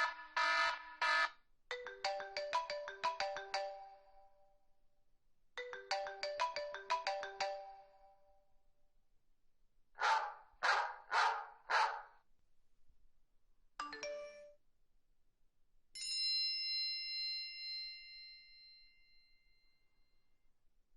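A string of phone ringtone and alert sounds, one after another: a quick melody of electronic notes played twice, a burst of four short tones, a brief blip, and a single chime that rings out and fades over several seconds.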